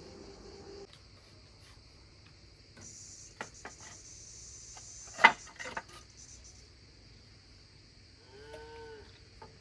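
Cow mooing, the call ending under a second in, over steady insect chirring. A single sharp knock about five seconds in is the loudest sound, and a short pitched call that rises and falls comes near the end.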